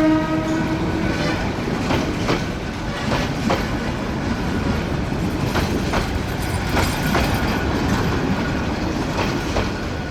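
Passenger train horn sounding a steady note that stops about a second in, then the coaches rolling past with their wheels clacking over the rail joints in an uneven run of clicks over a steady rumble.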